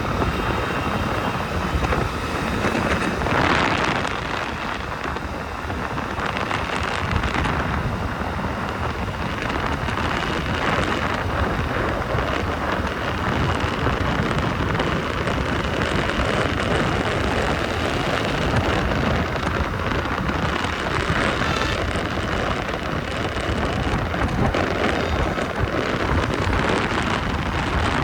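Steady wind rushing over the microphone of a moving motorbike, mixed with road and traffic noise.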